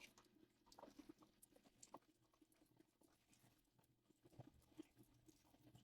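Near silence with a few faint, scattered soft clicks and taps.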